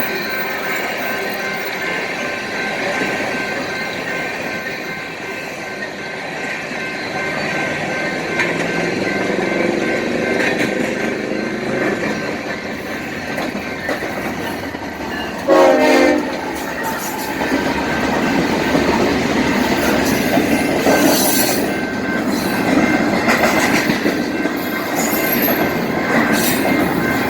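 BNSF freight trains rolling past close by, the cars' wheels clattering and rumbling steadily on the rails with a faint steady squeal, and one short horn blast about halfway through.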